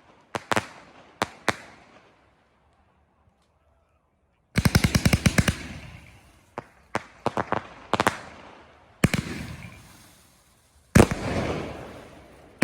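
Fireworks display: sharp aerial shell bangs with echoing tails. A few single bangs come first, then a lull. About four and a half seconds in there is a rapid volley of cracks, followed by more single bursts and a very loud bang near the end that trails into crackling.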